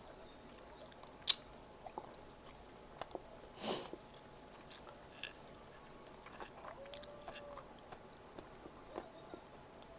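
A person eating close to the microphone: bites and chewing, with scattered sharp clicks, the loudest about a second in, and a short, louder crunch a little before the middle.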